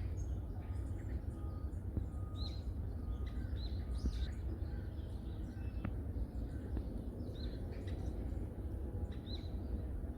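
Wild birds calling in a forest: short high chirps repeat every second or two, with fainter short whistled notes early on, over a steady low rumble.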